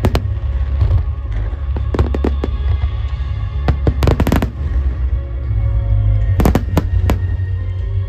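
Fireworks bursting overhead: a series of sharp cracks and bangs, with a dense cluster about four seconds in and another about six and a half seconds in, over a steady low rumble, with music playing along.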